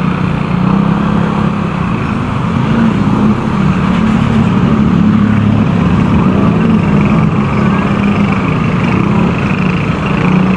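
Motorcycle engine running steadily while being ridden, with wind and road noise over it; the engine hum wavers a little in pitch and gets slightly louder about three seconds in.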